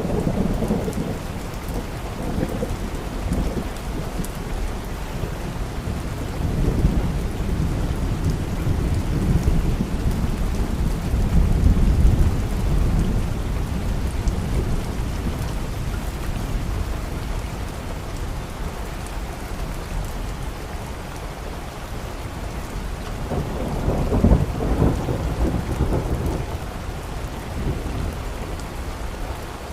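Steady rain with rolling thunder: low rumbles swell at the start, build to the loudest around the middle, and come back about three-quarters of the way through.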